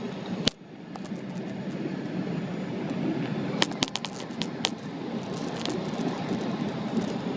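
Steady low rumble of a Boeing 777-300's engines and airflow heard inside the passenger cabin. A sharp click comes about half a second in, and a cluster of clicks and rattles comes around the middle.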